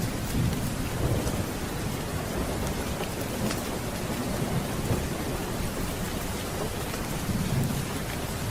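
Steady rain falling, with low rolls of thunder near the start and again about seven seconds in, and a few faint sharp ticks over the rain.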